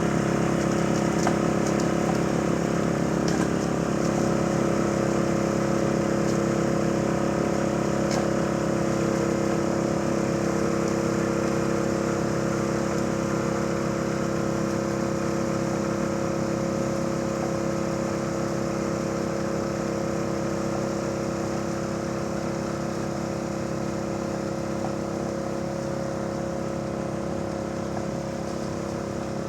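Yanmar Je-80HE snowblower engine running at a steady speed, now running properly after its carburetor was replaced. It cuts in suddenly and gets slightly quieter toward the end.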